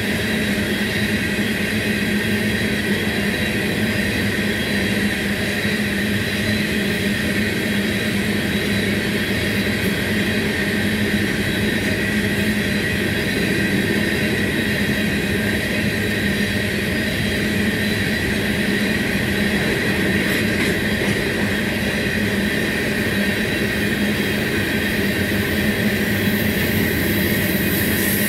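A freight train's open-top aluminum-sided cars rolling past steadily, a continuous rumble of steel wheels on the rails.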